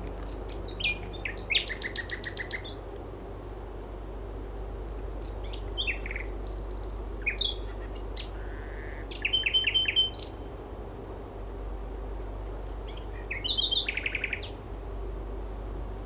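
Common nightingale singing: three phrases of varied whistled notes and fast runs of repeated notes, with pauses between them. A steady low hum lies underneath.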